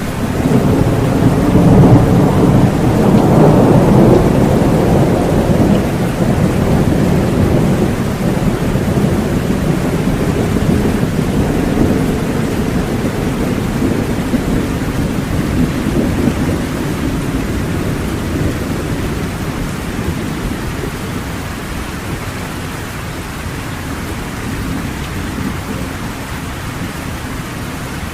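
Heavy rain falling with a long roll of thunder that swells in the first few seconds and then slowly fades away.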